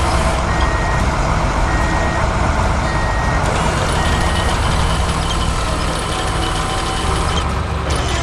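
Heavy truck's reversing alarm beeping at an even pace, about once every three-quarters of a second, over a steady low diesel engine rumble. The beeping stops about four and a half seconds in while the engine keeps running.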